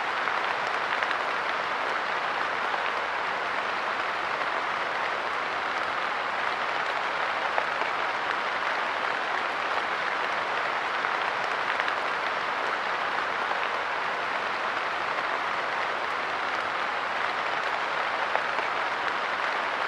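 Light rain falling steadily on a park bench, a dense, even patter of drops with no let-up.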